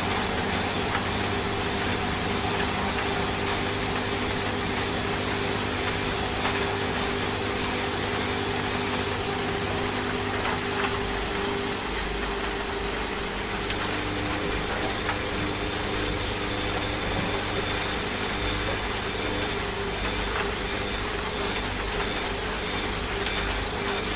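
A washing machine running with a steady motor hum, its low tones shifting about halfway through, under a constant hiss of rain.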